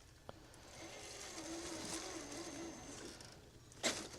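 Small electric RC crawler running slowly over the trail: a faint wavering motor whine, a light click early on and a sharp knock near the end.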